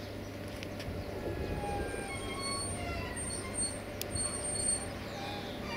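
Train in a rail yard: a steady low locomotive drone with short, high, flat-pitched squeals scattered over it, and a sharp click about four seconds in.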